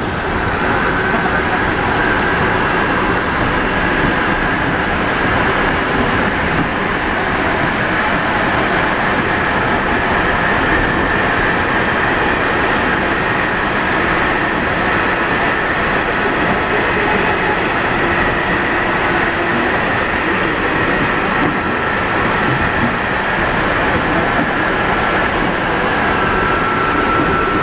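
Alstom NS-74 rubber-tyred metro train running between stations, heard from inside the car: steady running noise with a high whine that holds level and drops a little near the end.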